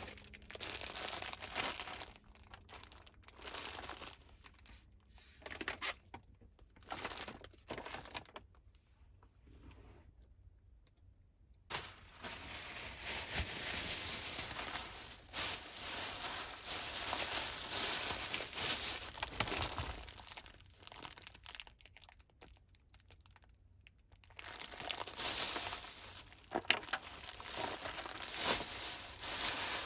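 Crinkling, rustling handling noise that comes in stretches of a few seconds with short pauses, including one longer unbroken stretch near the middle.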